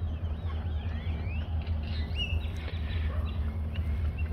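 Several birds chirping and calling with quick rising and looping notes, over a steady low rumble.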